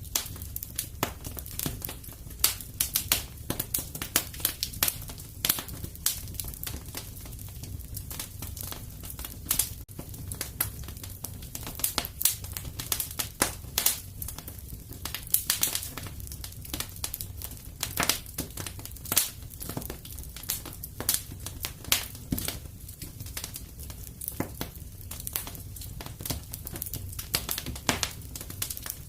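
Fire crackling in a fireplace: irregular sharp pops and crackles, several a second, over a low steady rumble.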